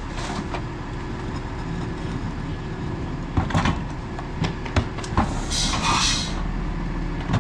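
Autocar ACX rear-loader garbage truck's engine running steadily, with several sharp knocks about three and a half to five seconds in and a short hiss of air about six seconds in.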